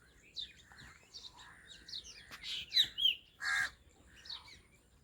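Birds chirping and calling, a string of short high chirps and sweeping notes, with a louder harsh call about three and a half seconds in.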